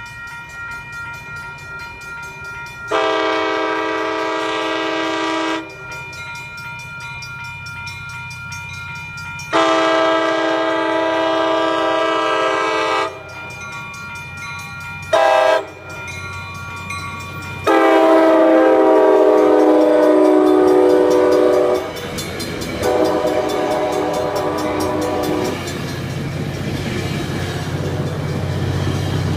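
Passenger train locomotive's multi-chime air horn sounding the grade-crossing pattern: two long blasts, a short one, then a long one whose pitch drops as the locomotive passes. A final lower blast follows, then the low rumble of the train going by builds up.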